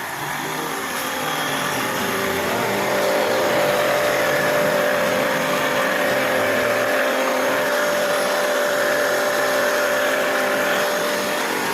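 Car wash equipment running with a steady rushing noise, the spray or air blower of the wash. It grows a little louder a few seconds in, and a steady whine comes in with it.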